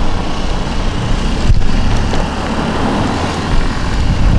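Road traffic passing on a city street, a steady rushing noise with a heavy low rumble.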